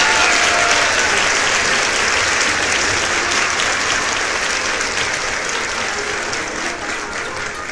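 Spring rolls sizzling as they fry in hot oil in a small pan, a steady hiss with fine crackling spatter that slowly fades.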